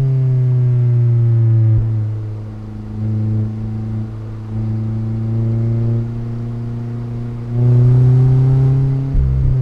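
Mazda MX-5's inline four-cylinder engine and exhaust under way, pulling at a steady pitch. It eases off and comes back on several times, then swells louder about three quarters of the way through; a brief break with a low thump near the end sounds like a gear change.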